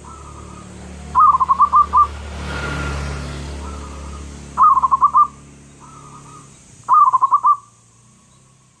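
Zebra dove (perkutut) cooing: three bursts of rapid staccato coos, five or six notes each, with softer coos between. A rushing background noise swells and fades around the middle.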